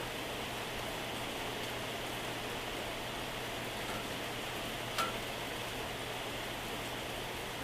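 Steady moderate to heavy rain falling, an even hiss of drops on surfaces. About five seconds in, a single sharper drop or tap rings out briefly above the rain.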